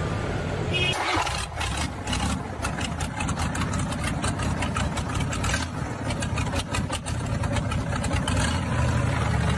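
Vehicle engine running, with many short knocks and rattles over a steady low rumble; the sound changes abruptly about a second in.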